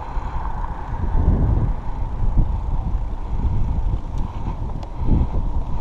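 Wind buffeting the microphone of a camera carried on a moving bicycle: a gusty low rumble that swells and drops every second or so.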